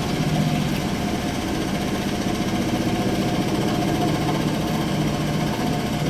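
A vehicle engine running steadily at an even pitch, with a constant hum and a fast, fine rattle.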